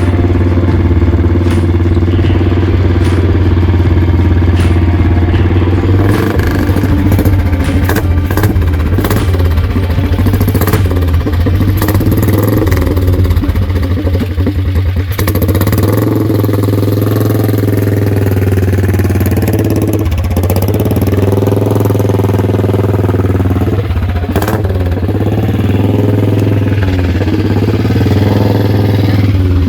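Motorcycle engine running steadily, with its note wavering a little in the second half and scattered clicks and rattles in the first half.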